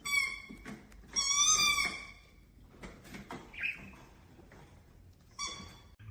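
A pet parrot calling: a short shrill call at the start, a longer wavering call about a second in, and another short call near the end.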